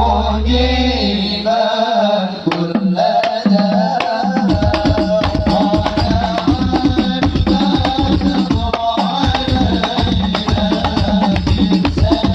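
Hand-drum music in hadroh style, with a melody running over it. From about four seconds in, the tam drum plays a fast, dense roll of low strokes meant to imitate a motorbike exhaust.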